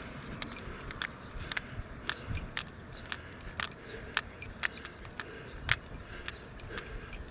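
Footsteps on a paved road at a steady walking pace, about two steps a second, each a short sharp click.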